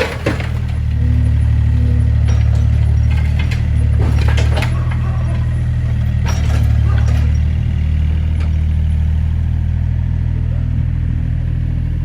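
Excavator's diesel engine running under varying load, its low drone swelling and easing every couple of seconds, with scattered sharp knocks and crunches.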